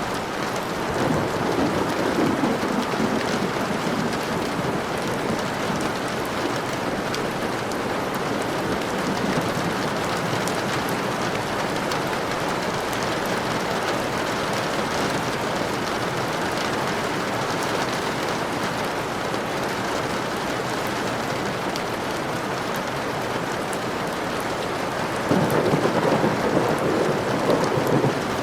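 Steady rain falling, with two louder rolls of thunder: one beginning about a second in, the other near the end.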